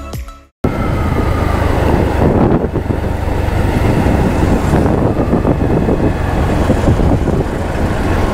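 Background music fades and cuts off about half a second in. Then a motorcycle is heard on the move: steady wind rush on the microphone over the engine and road noise.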